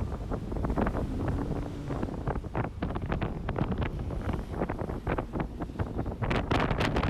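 Strong wind buffeting a phone's microphone: a heavy low rumble broken by rapid, irregular crackling gusts, thickest about six seconds in.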